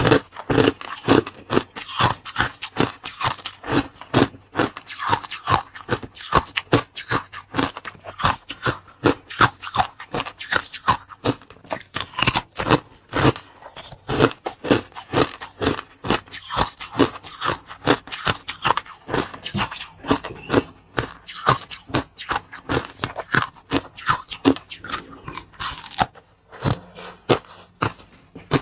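Close-miked eating: a dense, irregular run of crunching bites and chewing, several crunches a second, with scraping sounds.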